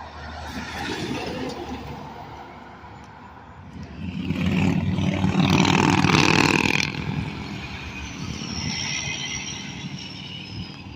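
Heavy truck with straight-piped exhaust driving past, its engine rising to a loud peak about four seconds in and fading after about seven seconds. A thin high whine falls slowly in pitch near the end.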